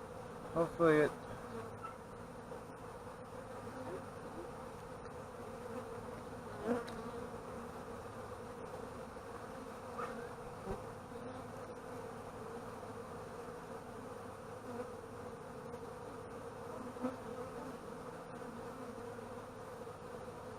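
Honeybees from an opened hive buzzing steadily, a continuous hum of many bees at once.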